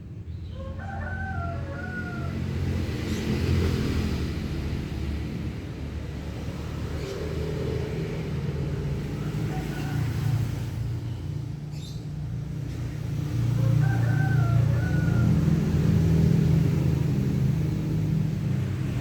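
A rooster crowing, once near the start and again about two-thirds of the way through, over a steady low rumble.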